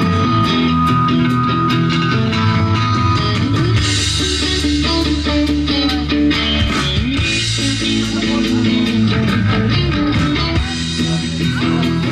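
Rock band playing a drinking song: guitars and bass over a steady drum-kit beat.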